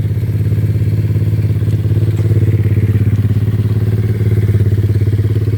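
Small single-cylinder mini supermoto engine running steadily, a pulsing note held at a constant speed without revving.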